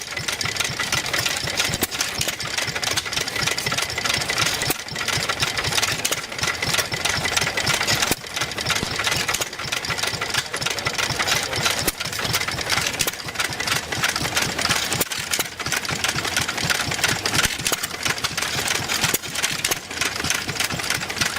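Several hit-and-miss gasoline engines running together, each popping on its firing strokes at irregular intervals, over a steady hiss.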